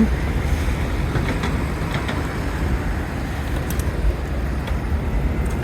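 Steady city street traffic noise with a low rumble, and a few faint ticks partway through.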